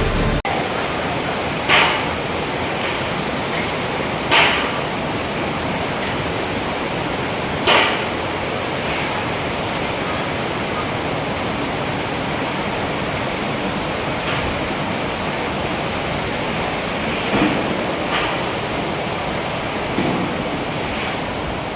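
Strong typhoon wind rushing over the microphone as a steady noise, with a few brief louder gusts in the first eight seconds and weaker ones near the end.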